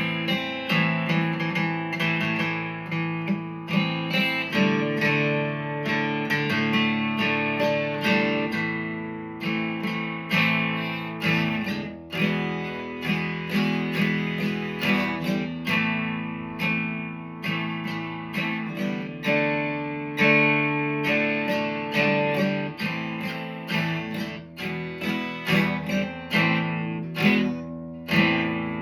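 Acoustic guitar strumming chords in a steady rhythm: an instrumental break with no singing.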